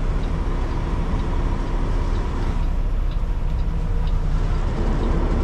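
Semi-truck diesel engine running at low speed while the tractor-trailer is slowly reversed, heard from inside the cab.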